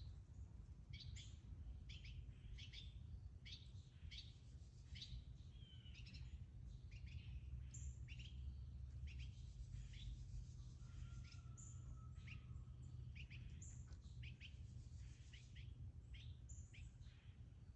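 Small birds chirping faintly, with short high notes coming irregularly several times a second, over a steady low background rumble.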